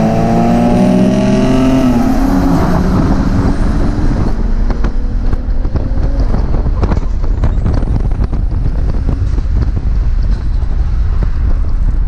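Car engine, its pitch falling as it slows over the first two to three seconds, then giving way to a loud, steady rumbling noise with scattered knocks.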